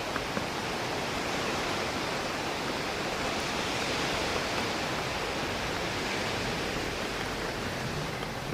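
Steady wash of rain against a window mixed with wind through trees, swelling slightly in the middle, with a few faint ticks near the start.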